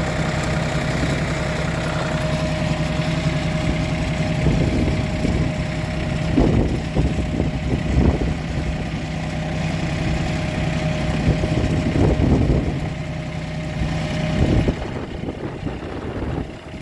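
Farm tour train's engine idling steadily, stopping about three-quarters of a second before the end.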